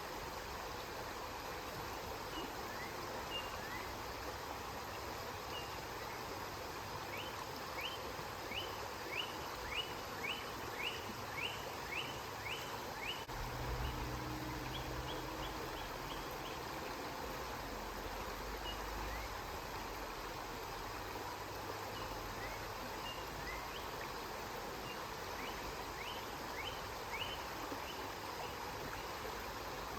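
River water flowing steadily. A bird calls over it in a quick series of short chirps, about two a second, for several seconds before the middle, with a few more chirps later; a low rumble joins in for several seconds around the middle.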